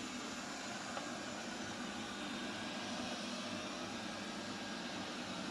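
ZOOZEE Z70 robot vacuum running, a steady whir of its suction fan and brushes while sweeping.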